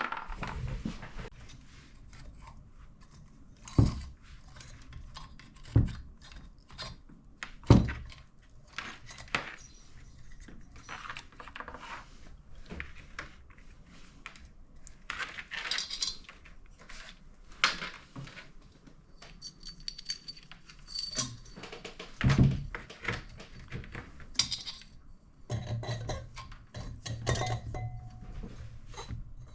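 Hand tools and small metal engine parts clinking and knocking during engine assembly, with a few sharper knocks spread through. A steady low hum starts near the end.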